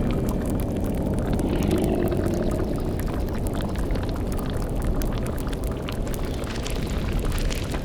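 Layered spooky ambience made up of a steady low rumble and bubbling, boiling liquid like a witch's cauldron, with faint crackling over it.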